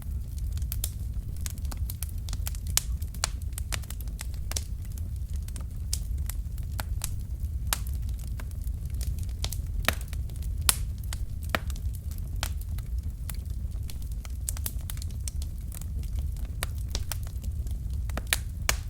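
Wood fire burning in a fireplace: logs crackling and popping in quick irregular snaps over a steady low rumble of the flames.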